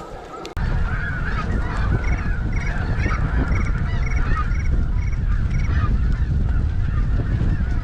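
Many snow geese calling at once, a dense chorus of overlapping honks. Heavy wind rumble on the microphone comes in abruptly about half a second in.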